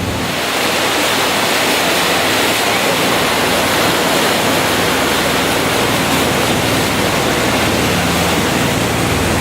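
Steady, even rushing noise, like water or wind, with no clear tones or strokes.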